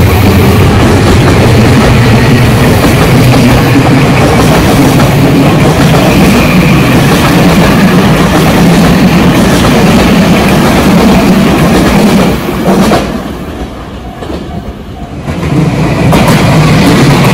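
Tobu Tojo Line electric commuter trains running past at close range, wheels clattering over the rail joints with a loud, steady rumble. About two-thirds of the way through the first train clears and the sound briefly drops away. Then a second train runs in and the rumble and clatter return.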